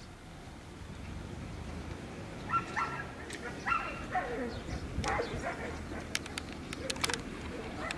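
A dog barking several times, short calls about two to five seconds in, followed by a quick run of sharp clicks.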